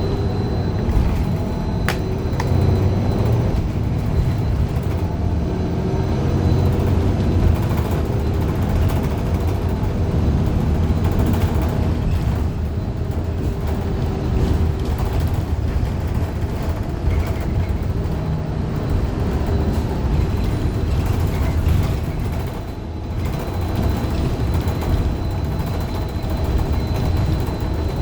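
Steady rumble of a Gillig Low Floor CNG bus heard from inside while it drives: its Cummins Westport ISL G engine and Allison B400R transmission, which the uploader calls messed up. The level dips briefly about three-quarters of the way through, and a faint high whine can be heard at the start and end.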